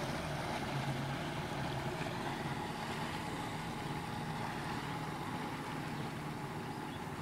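Jet ski engine running steadily, with a constant rush of wind and water noise over its low hum.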